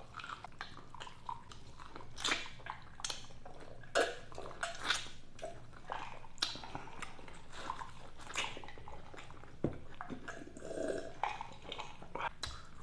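Eating sounds close to the microphone: chewing and mouth smacks, heard as a run of short, irregular clicks.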